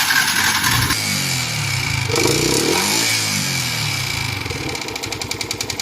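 Yamaha R15 version 2's 150 cc single-cylinder four-stroke engine running just after starting, revved up and down about a second in, then settling into a steadier pulsing run near the end. The mechanic puts the engine noise down to a seized piston from running without oil changes.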